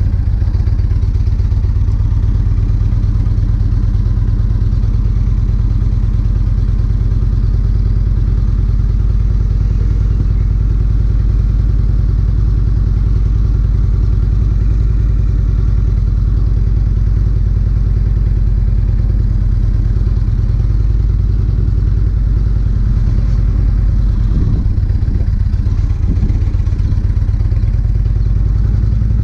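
Motorcycle engine running steadily, a low even pulsing beat with no revving.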